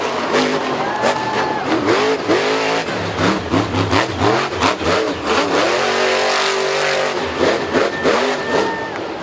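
An engine revving up and down over and over, its pitch rising and falling, with short knocks and clicks scattered through.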